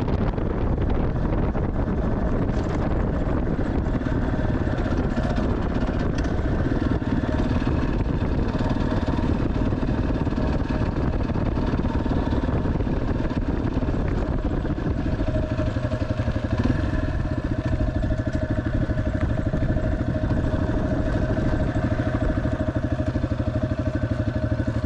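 Single-cylinder Yamaha dual-sport motorcycle engine running steadily under way, its rapid firing pulses over a steady rush of air.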